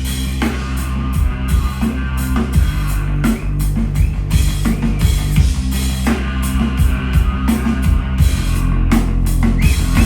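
Live rock band playing an instrumental stretch between sung lines: a drum kit keeping a steady beat over sustained bass and guitar.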